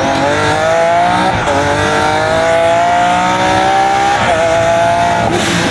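Twin-turbo Lamborghini Aventador S V12 accelerating hard, its note climbing steadily and dropping sharply at two upshifts, about a second in and about four seconds in. A short burst of noise comes near the end.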